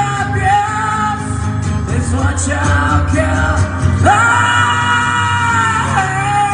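Unplugged acoustic song: acoustic guitar with a singing voice, which holds one long note a little past the middle.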